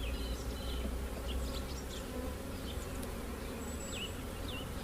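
Honey bees buzzing around an open hive as a brood frame is lifted out: a steady low hum from the colony.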